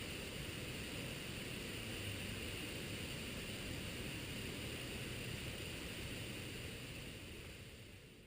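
Steady rushing noise, like wind or hiss on a small camera's microphone, fading out near the end.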